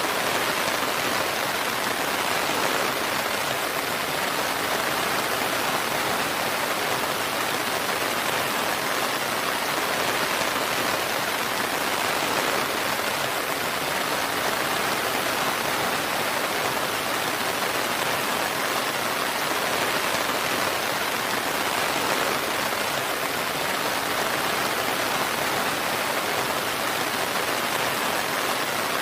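Steady, even rainfall, a constant hiss of rain falling on surfaces with no thunder or single drops standing out.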